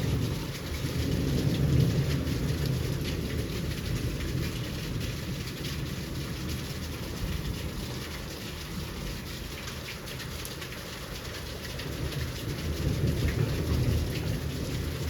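Heavy rain falling, a steady hiss with many small drop ticks, under a low rumble that swells twice, about a second in and again near the end.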